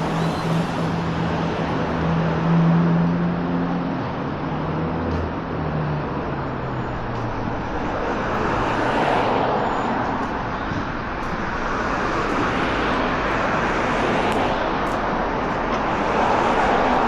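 Road traffic on a busy city street: a low steady hum fades out after the first few seconds, and vehicles pass in swells, about halfway through and again near the end.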